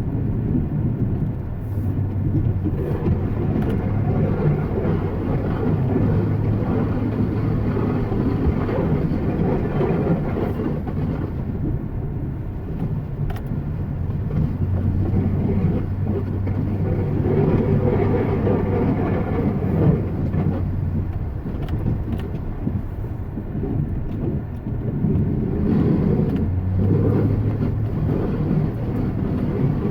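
Continuous low rumble of a running motor vehicle, with a steady low hum that fades in and out three times.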